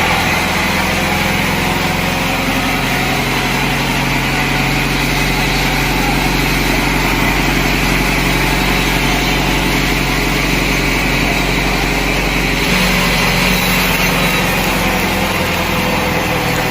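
An engine running steadily at a constant speed, its note shifting slightly about three-quarters of the way through.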